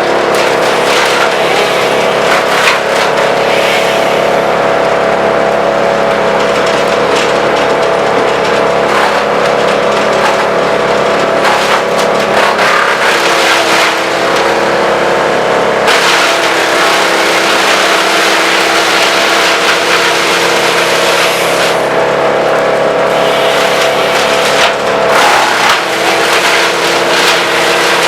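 Vermeer BC1000 wood chipper running, its engine droning steadily under a loud grinding, crackling noise of branches being fed through and chipped. The engine note dips slightly twice, about halfway through and near the end.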